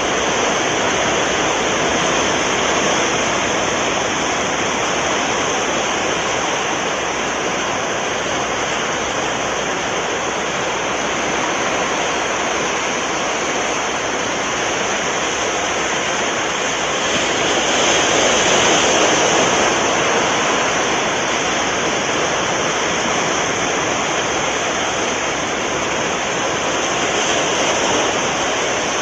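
Sea waves washing onto the shore in a steady rush, one wave swelling louder about two-thirds of the way through.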